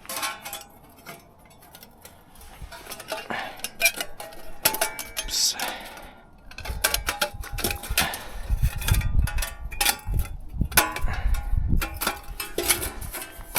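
Metal camp gear clinking and clattering as it is handled, sharp knocks with short metallic ringing, with low rumbling bumps of handling noise in the second half.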